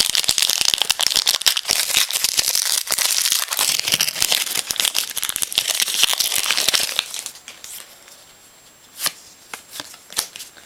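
Trading card pack wrapper being torn open and crumpled, a dense crinkling crackle that stops about seven seconds in, followed by a few soft clicks of cards being handled.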